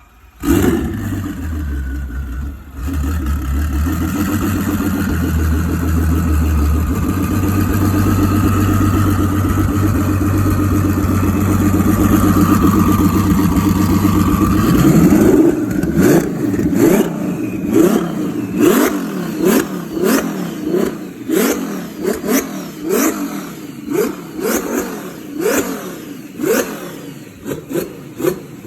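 Twin-turbocharged Ferrari F12's V12 starting and running at a fast idle, then revved in short, sharp blips about once a second through the second half.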